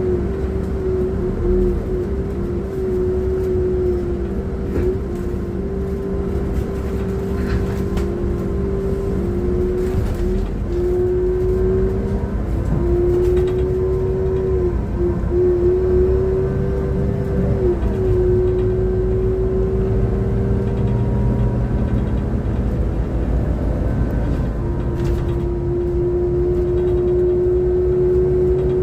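City bus running under way with a loud whine over a low engine rumble. The whine dips briefly in pitch several times in the first half, then holds steady. This is the abnormal engine noise the recordist calls a bad engine sound.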